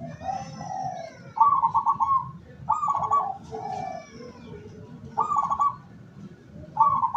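Zebra doves (perkutut) cooing: short, rapidly pulsed trilling phrases repeated about five times, with brief gaps between them.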